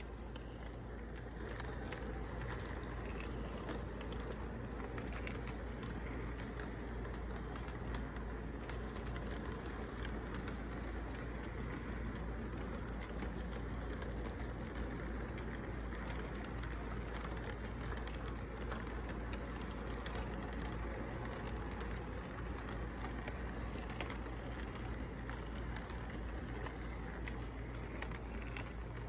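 Intermodal train running steadily: a continuous rumble of wheels on the rails with many small clicks and rattles throughout.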